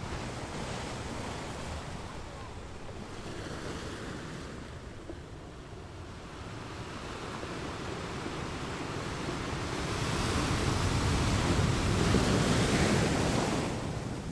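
Ocean surf washing, mixed with wind on the microphone; the noise swells louder about ten seconds in and eases just before the end.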